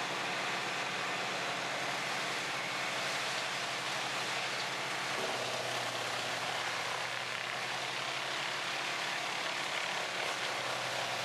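Large whole-tree wood chipper running: a steady engine drone under a constant hiss of chipping and machinery noise. The engine note shifts about five seconds in.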